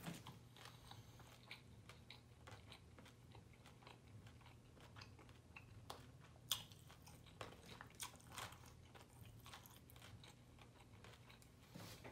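A person chewing and biting into fried food: faint, close wet mouth clicks and soft crunches, with a few louder crunches about halfway through.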